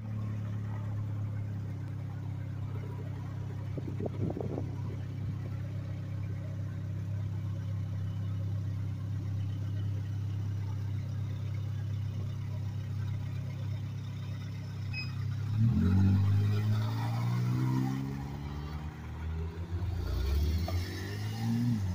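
A car engine idling steadily, then a Porsche 911 Turbo's flat-six revving up and down several times as the car pulls away, with a last rising rev near the end.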